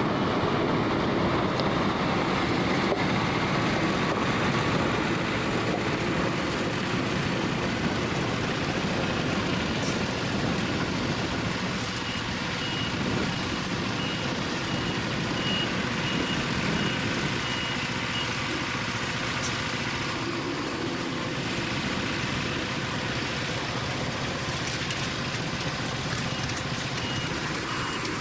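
Isuzu FSR 700 hi-rail truck's diesel engine running as it manoeuvres. About twelve seconds in, its reversing alarm sounds an even beeping for several seconds, then starts again near the end.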